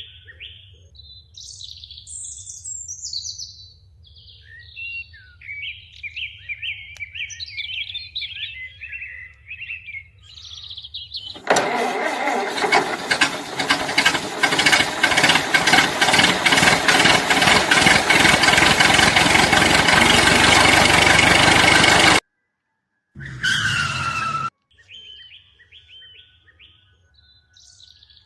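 Birds chirping, then about eleven seconds in a loud, rapidly pulsing engine-like running sound starts and goes on for about ten seconds before cutting off suddenly. A short sound with a falling tone follows, and the birds chirp again near the end.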